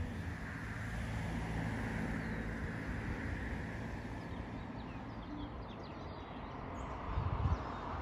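Outdoor ambience: a steady rushing background noise with a low rumble, and faint short bird chirps now and then.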